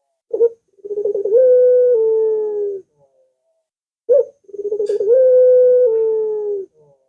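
Puter dove (domestic collared dove) cooing twice: each call opens with a short note, runs into a quick string of pulsed notes, then stretches into one long drawn-out coo that drops slightly in pitch near its end.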